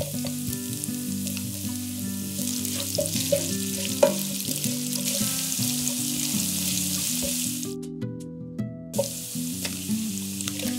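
Chopped onion and garlic sizzling in hot oil in a frying pan, with a few sharp taps and scrapes of a spatula as it is stirred; the sizzle cuts out for about a second about eight seconds in. Soft background music with held notes plays underneath.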